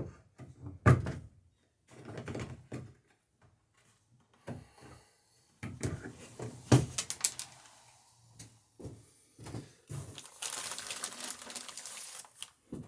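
Irregular knocks and taps of riveting work on the copper rivets of a wooden dory's planking, with clusters of quick strikes. Near the end comes about two seconds of steady hissing noise.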